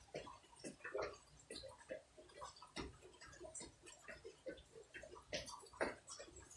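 Raindrops striking near the microphone: a quiet, irregular patter of sharp ticks and drips, several a second.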